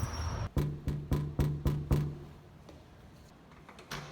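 Six quick, sharp knocks in a row, about four a second, each with a short low ring, then one softer knock near the end.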